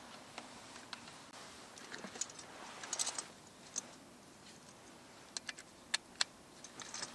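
Faint, irregular small clicks and taps, with a short cluster of rustling clicks about three seconds in and a few sharper ticks near the end.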